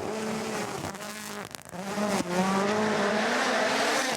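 Rally car engine revving hard, its pitch rising and falling through gear changes. There is a brief lift about one and a half seconds in, then loud, sustained high revs.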